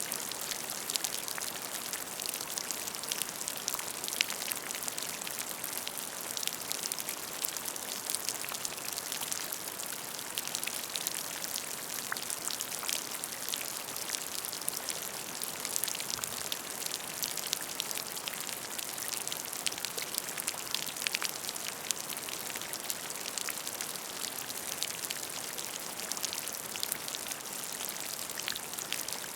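Steady rain falling into a puddle of water: a dense patter of many small drop impacts, with no let-up.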